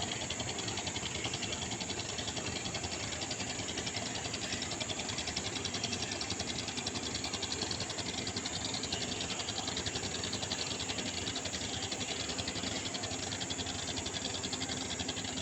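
A river boat's motor running steadily with a fast, even pulse and a rattle over it, heard from on board.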